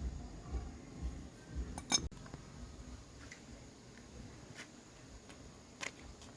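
Hand tools and small metal motorbike parts clinking as they are handled. There are soft low knocks in the first two seconds, one sharper clink about two seconds in, then a few scattered light ticks.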